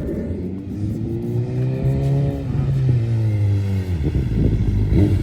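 BMW S1000RR inline-four through a full Akrapovic exhaust, revved up gently and let fall back, then running rough with crackles in the exhaust as the revs drop, about four seconds in.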